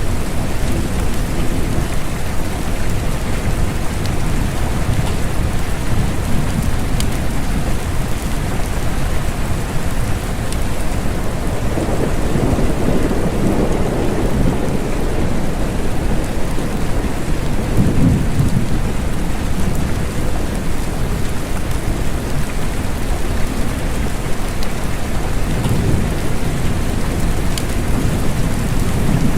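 Steady rain with low rolling thunder that swells a few times.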